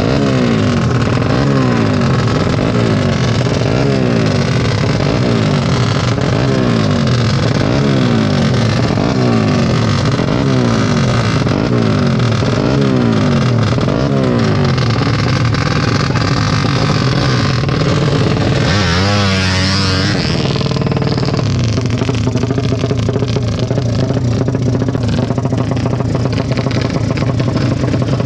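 Tuned drag-racing motorcycle engines revving, with the pitch climbing in repeated throttle blips about once a second. About two-thirds of the way through comes a sweeping rise and fall in pitch, and then the engines run on more steadily.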